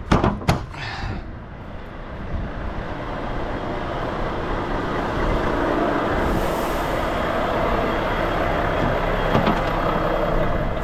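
Two sharp knocks at the start, then a semi-truck's diesel engine running, building over the first few seconds to a steady, fairly loud drone.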